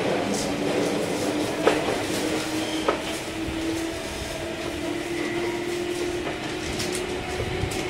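Running sound of a Meitetsu 5000 series electric train: a steady rumble of wheels on rail under a faint motor hum that edges slowly up in pitch, with two sharp clacks of wheels over rail joints about a second apart.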